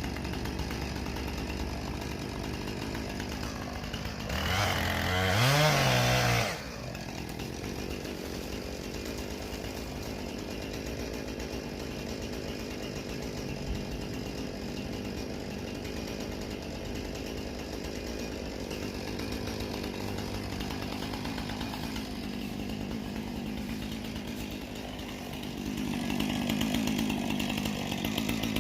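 Gas chainsaw idling, revved up for a couple of seconds about four seconds in and rising again near the end.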